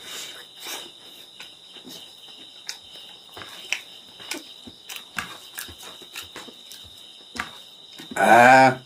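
Close-miked mouth sounds of a man chewing pork and rice eaten by hand: scattered wet smacks and clicks, with fingers picking at food on the plate. A short, loud burst of his voice comes near the end, over a steady high insect trill in the background.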